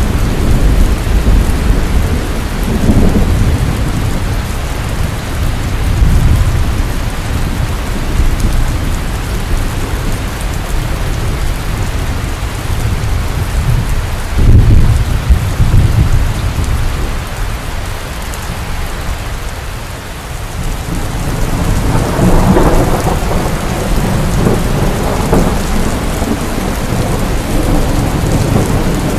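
Heavy rain falling steadily, with rolls of thunder rumbling several times: low swells a few seconds in, again around the middle, and a longer rumble in the last third.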